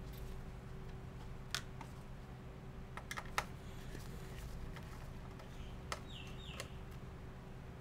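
A few sharp, scattered plastic clicks as the laptop's parts are handled during disassembly, over a steady low hum. Two short high chirps that fall in pitch come just after the last click, near the end.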